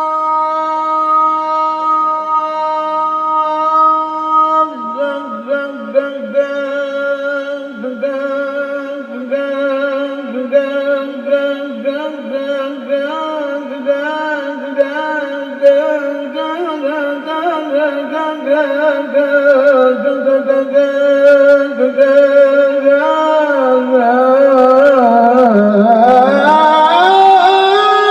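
A man singing sholawat in one long melismatic line: a held note, then ornamented runs with vibrato, dipping low and gliding up to a higher held note near the end.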